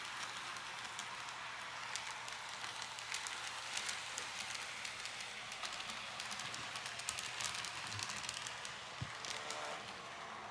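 Small narrow-gauge model train running on N-gauge track: a steady light hiss with many irregular clicks and crackles, thickest through the middle.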